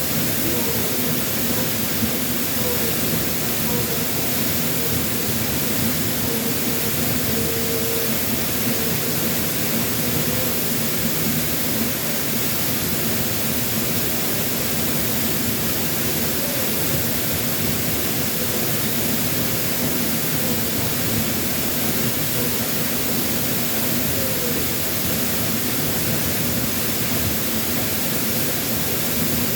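Waterfall pouring in a steady, loud, unbroken rush of water, its flow swollen after a typhoon.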